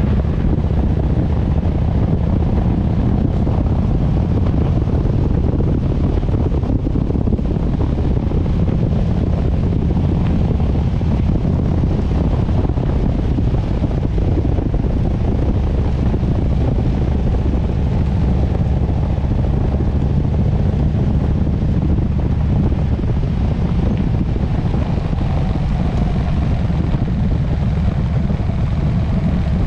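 Harley-Davidson Sportster S V-twin engine running steadily at cruising speed, with wind rushing over the microphone.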